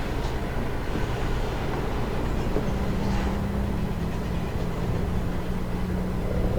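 Subway train running: a steady rumble, joined by a steady low hum about two and a half seconds in.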